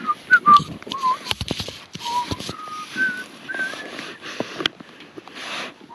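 A person whistling a tune in short wavering notes, with several sharp knocks and some rustling from handling things.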